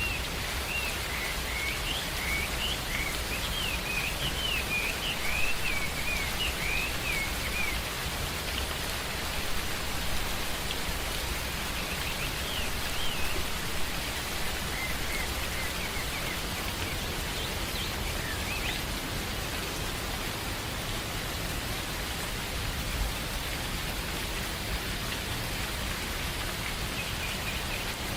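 Steady rain falling on foliage in a forest, with a bird calling in a quick series of short whistled notes near the start and a few more in the middle.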